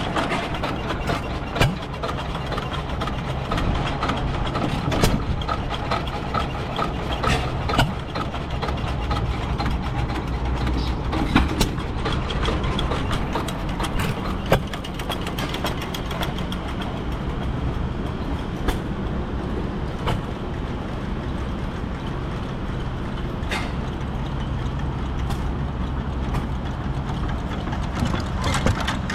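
Engine running steadily, with a low hum and scattered sharp knocks every few seconds.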